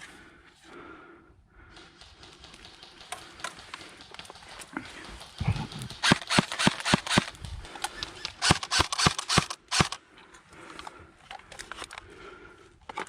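Airsoft guns firing: two quick strings of sharp snapping shots, several a second, the first about six seconds in and the second about two seconds later.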